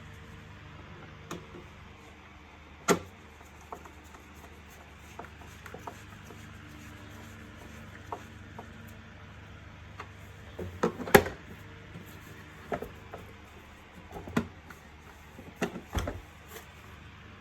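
Clicks and knocks of vacuum-cleaner parts being handled and fitted together during assembly, scattered and irregular, the loudest about three seconds in and about eleven seconds in, over a low steady hum.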